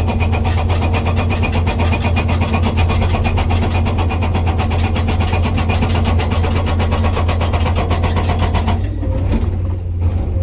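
Hydraulic rock breaker on a Komatsu PC200 excavator hammering in rapid, even blows over the steady drone of the excavator's diesel engine. The hammering stops about nine seconds in and the engine keeps running.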